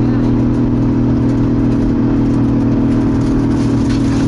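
Toyota 2JZ-GTE turbocharged inline-six in a Nissan 240SX drift car running at steady revs while cruising, heard from inside the cabin: a constant drone that neither rises nor falls.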